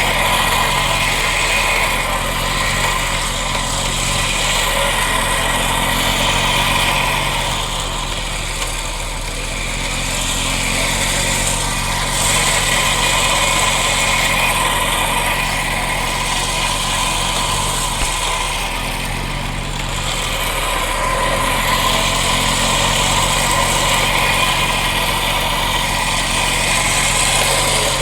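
A vehicle engine running steadily at low speed, with a constant high hiss over it.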